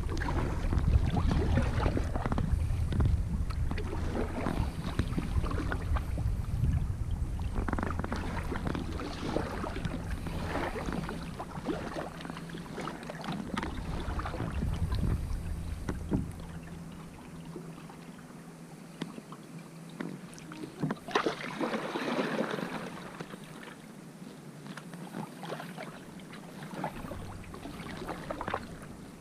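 Kayak paddle strokes dipping and splashing in the water every second or two, with a heavy low rumble over the first half that drops away about halfway through.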